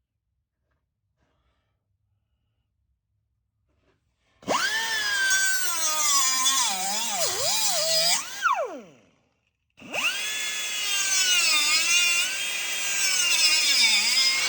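Near silence for about four seconds, then a handheld electric power tool cutting off a steel pedal-shaft support bracket. Its motor whine sags and wavers as it bites, spins down with a falling pitch, then starts up and cuts again.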